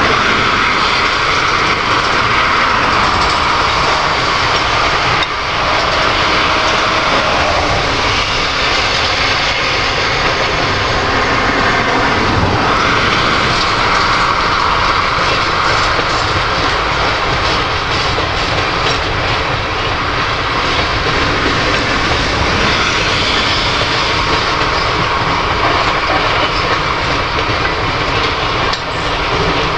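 Canadian Pacific freight train of covered hopper cars rolling slowly past, a steady, loud noise of steel wheels running on the rails.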